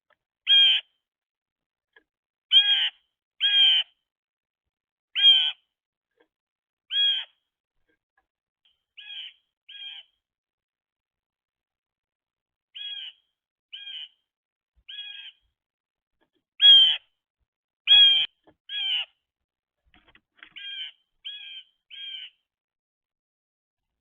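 Blue jay giving a series of short, harsh "jay" calls, singly and in quick pairs and triplets, with pauses between groups.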